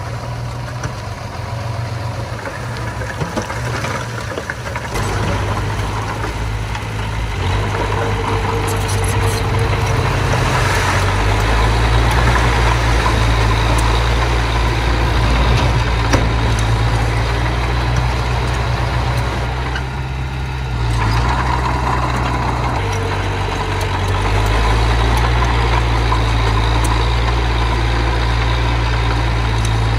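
Diesel engine of a small earthmoving machine running continuously. It grows louder about a third of the way in, eases off for a moment about two-thirds through, then works harder again.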